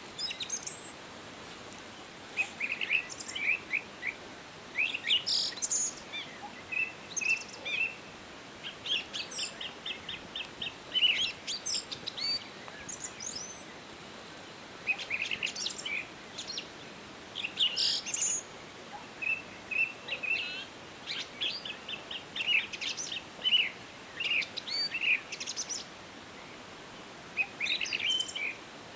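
Several songbirds singing, with short high chirping and trilling phrases coming every second or so over a faint steady background hiss.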